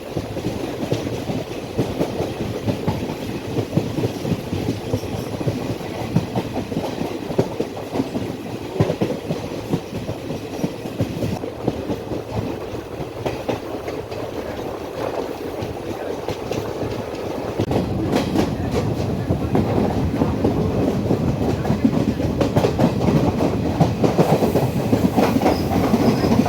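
Passenger train running along the track, heard from on board: a steady rumble with the wheels clicking over rail joints, getting louder about two-thirds of the way through.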